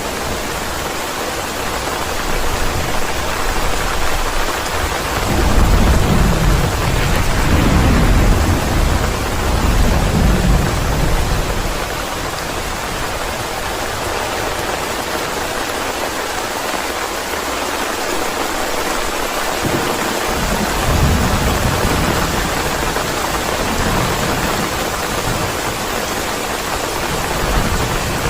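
Steady rain with rolling thunder. A long low rumble builds about five seconds in and rolls on for several seconds, and fainter rumbles follow later.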